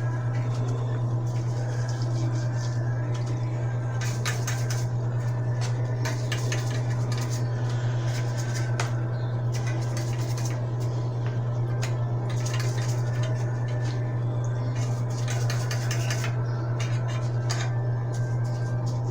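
Small steel bicycle hub parts clinking and scraping together as they are handled and cleaned, in scattered bursts of clicks, over a steady low hum.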